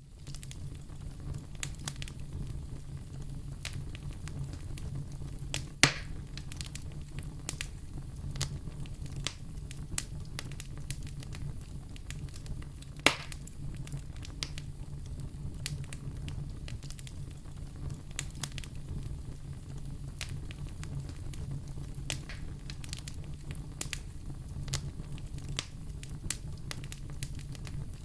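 Wood fire crackling in a fireplace over a steady low rumble, with scattered small crackles and two sharp pops, one about six seconds in and another about thirteen seconds in.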